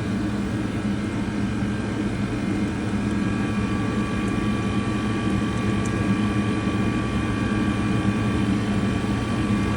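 Steady machinery drone with several faint steady whining tones over it, unchanging throughout.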